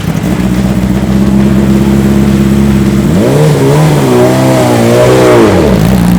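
BMW M 1000 RR race bike's inline-four engine at steady revs, then revving up and down repeatedly from about three seconds in, before dropping back to a steady note near the end.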